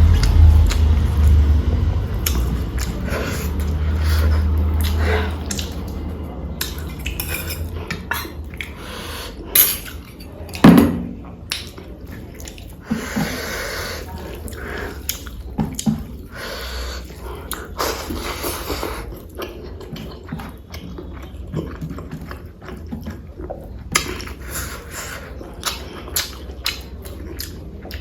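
Eating at a meal: scattered clinks of dishes and cutlery with chewing, and two louder knocks about ten seconds in. A low rumble in the first few seconds fades away.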